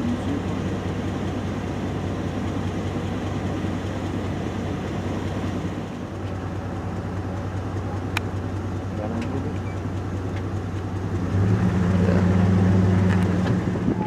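Vehicle engine idling steadily with a low hum; it grows louder about three-quarters of the way in, then stops abruptly at the end.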